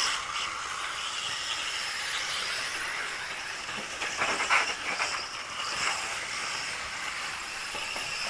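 1/10-scale RC rally cars running on a loose dirt track: a steady high-pitched hiss and whine of motors and tyres on dirt, with a louder, scrabbling rush of noise about four to five seconds in.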